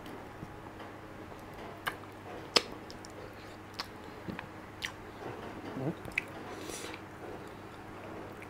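A person chewing soft, creamy durian flesh close to the microphone, with wet lip smacks and scattered mouth clicks; the sharpest click comes about two and a half seconds in. A faint steady low hum runs underneath.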